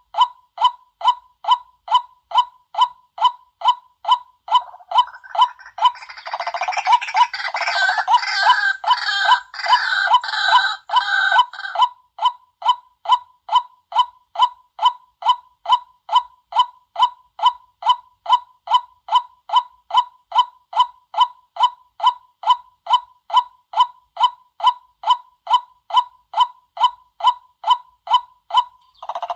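White-breasted waterhen decoy calls: a monotonous series of short, regular calls, about two a second. From about five seconds in to about twelve, a louder, denser burst of overlapping calling joins the steady series.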